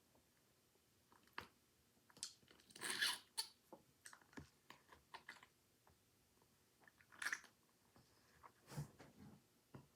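A person eating a jelly fruit snack at close range: faint, scattered chewing and mouth noises, with louder bursts about three seconds in and again just after seven seconds.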